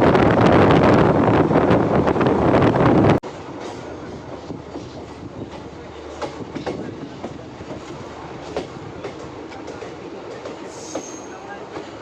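Passenger train running on the rails, its wheels clicking over the rail joints. For about the first three seconds a loud rush of wind and rolling noise fills the sound, then it drops off suddenly to a quieter run with scattered clicks and a brief wheel squeal near the end.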